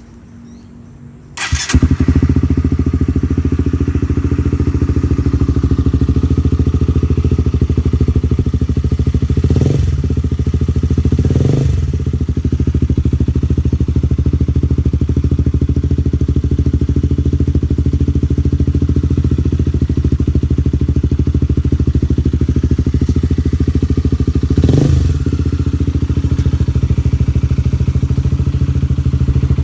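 Honda CBR 150's single-cylinder four-stroke engine, running through an aftermarket carbon-finish exhaust, starts suddenly about a second and a half in and settles into a steady idle. It is blipped three times: two quick throttle blips close together near the middle and one more near the end, each a brief rise and fall in revs.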